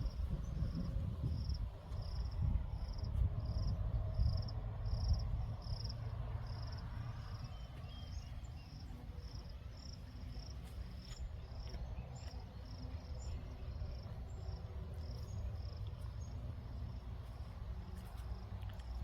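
A cricket chirping in an even, high-pitched rhythm of about two chirps a second, growing fainter in the second half, over a low rumble that is strongest in the first several seconds.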